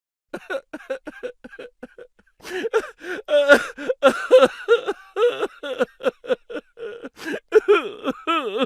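A voice making a rapid string of short, laugh-like funny noises, several a second, with the pitch wobbling up and down near the end.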